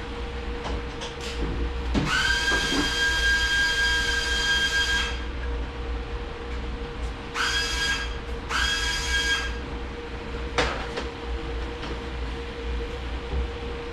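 Compressed air hissing with a whistling tone from a blow nozzle: one blast of about three seconds, then two short blasts. A sharp knock follows near the end.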